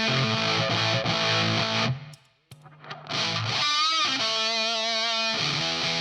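Electric guitar played through a Sola Sound Tone Bender Mk IV fuzz pedal: thick, sustaining fuzzed chords that cut off suddenly about two seconds in, then a note bent upward and held with vibrato, followed by more fuzzed chords.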